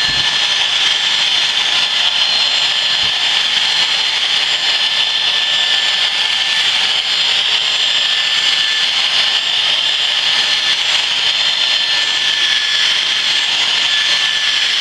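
Dyson DC58 cordless handheld vacuum cleaner running steadily with its mini motorised brush head on carpet: a loud, high-pitched whine.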